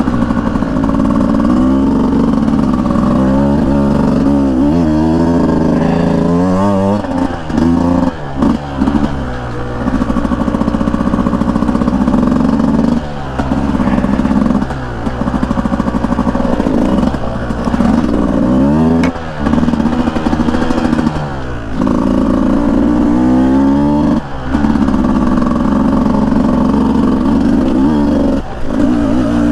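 Beta 200 two-stroke dirt bike engine under way, its revs rising and falling with the throttle, with several brief dips where the throttle is chopped between bursts.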